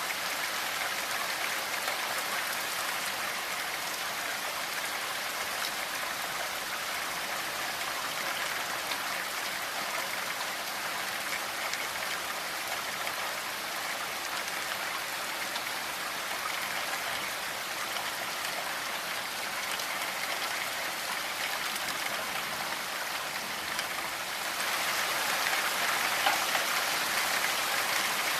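Steady rain falling, an even hiss of drops. It grows a little louder about twenty-five seconds in.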